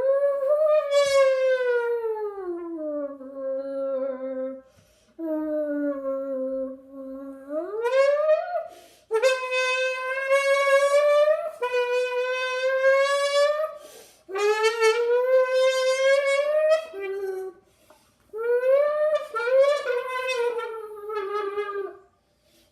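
A person humming and buzzing into a squeezed drink can to imitate a Lamborghini engine: about six long, buzzy tones that glide down and back up like revving and gear changes, with short breaks between them.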